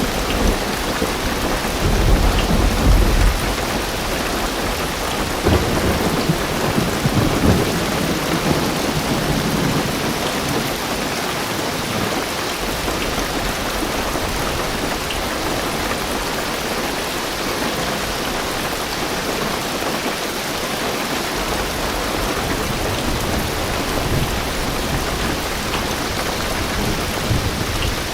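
Heavy rain drumming steadily on a car's roof and windows, heard from inside the car, with low rumbles of thunder swelling a few times in the first several seconds.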